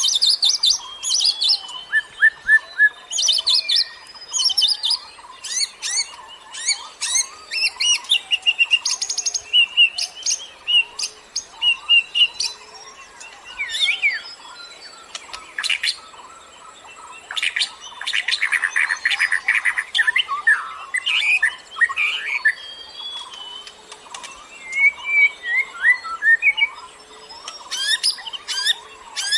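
Several songbirds chirping and trilling in a dawn-chorus mix, short high calls overlapping, with a denser run of rapid notes about two-thirds of the way through.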